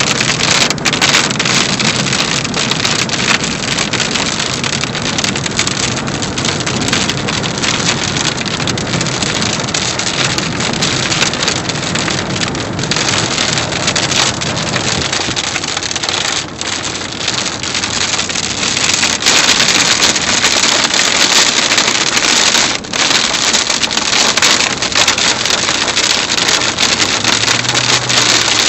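Heavy storm rain with wind on the microphone: a dense, steady hiss that grows louder about two-thirds of the way through.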